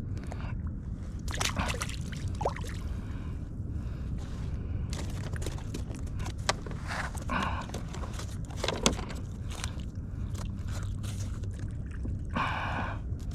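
Water sloshing against a kayak's hull over a steady low rumble, with scattered sharp clicks and knocks.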